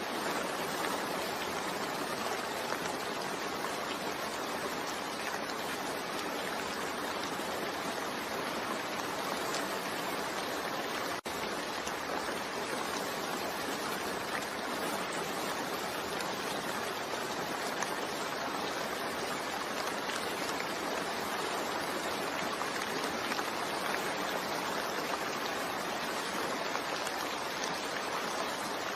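Steady, continuous rain blended with white noise: an even hiss with no distinct drops or changes, broken only by a momentary dropout about eleven seconds in.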